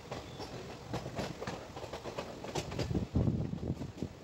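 A passenger train running along the track, heard from aboard a coach. There is a steady rumble with irregular sharp clacks of the wheels over rail joints, growing louder about three seconds in.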